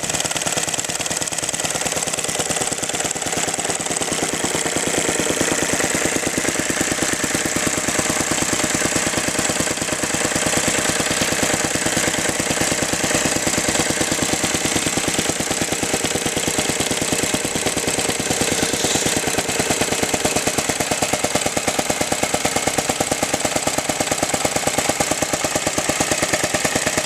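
Single-cylinder gas engine of an antique Lindsay air compressor, built from Merkel motor wheel parts, running steadily with a rapid, even knocking beat. The beat gets a little more pronounced about ten seconds in.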